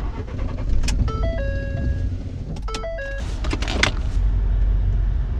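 Car running, a steady low rumble heard from inside the cabin, with a few sharp clicks and, twice, a short electronic chime of stepped tones.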